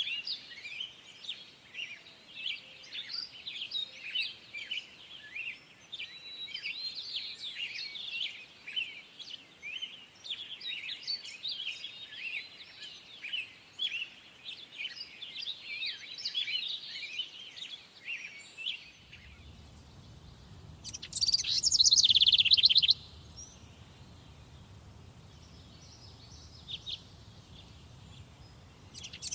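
Wild birds singing in a summer forest: a dense chorus of many overlapping chirps and short songs. About two-thirds of the way through, the chorus drops out and a low steady rumble comes in. Over it, a single bird gives a loud, rapid trill lasting about two seconds, then starts another right at the end.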